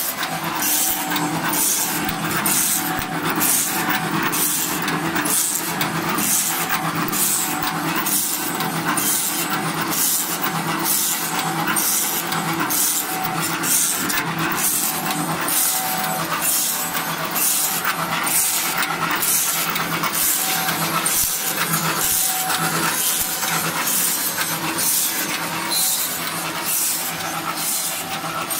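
Wooden chopstick forming and sharpening machine running, with a high scraping stroke repeating about one and a half times a second over a steady motor hum.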